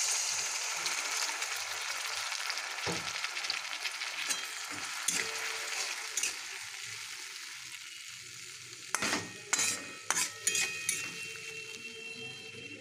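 Onion-tomato masala sizzling in mustard oil in a metal kadai. The hiss is loudest at first, just after a little water goes in, and slowly dies down as a metal spatula stirs it. From about nine seconds in, the spatula scrapes and knocks against the pan several times.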